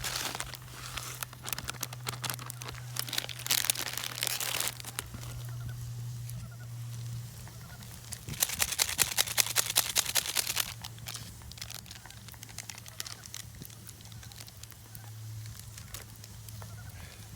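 Crinkling and rustling handling noises, with a dense run of rapid clicking about halfway through.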